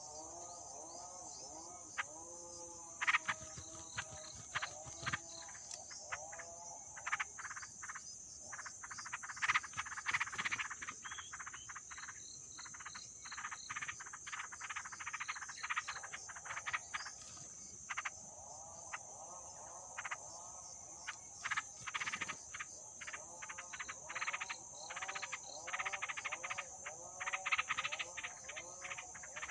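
Repeated short croaking calls and bouts of quick clicking chatter over a steady, high-pitched insect drone.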